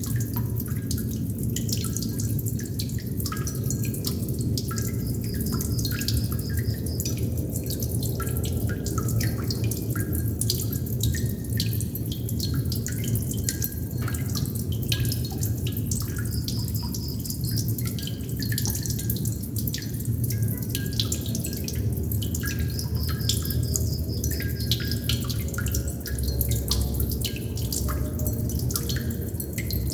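Water droplets falling at an irregular pace, each a short ringing plink, over a steady low rumble.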